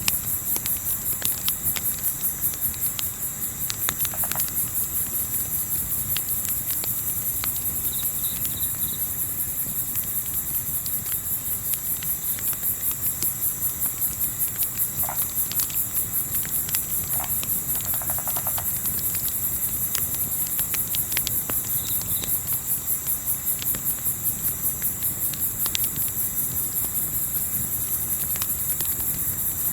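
Crickets chirring in a fast, even, high-pitched trill, with the scattered sharp crackles of a wood campfire.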